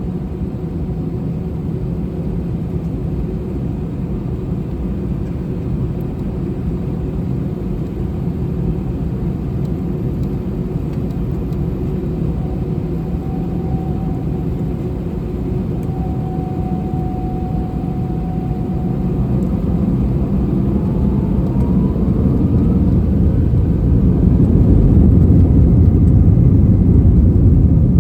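Airbus A321 jet engines heard inside the passenger cabin: a steady low rumble, then from about two-thirds in a whine rising in pitch and the rumble growing louder, as the engines spool up for the takeoff run.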